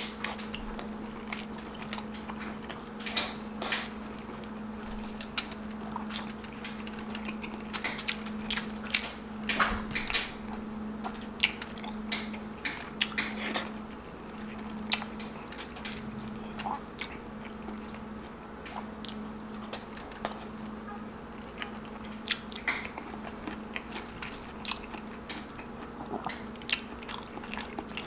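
Close-mic eating: a person biting and chewing tender stewed beef, with wet, irregular mouth clicks and smacks.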